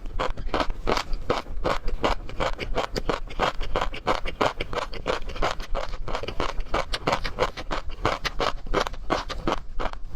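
Close-miked eating of shrimp: a rapid, unbroken run of crisp crunches and crackles as the shells and flesh are bitten, chewed and worked.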